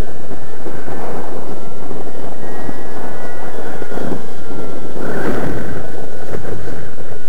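Heavy wind buffeting the microphone with a loud rumble, over which the model plane's ASP .61 two-stroke glow engine drones faintly in the air, its pitch drifting slightly.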